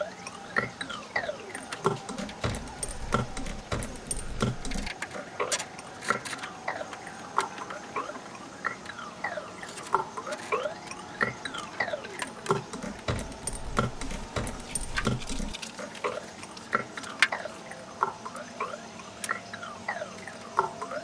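Fast-forwarded workshop sound of hands reassembling a VW Beetle sunroof: rapid clicks and rattles of parts and tools, with constant high, squeaky chirps. Low rumbles come twice, about 2 and 12 seconds in.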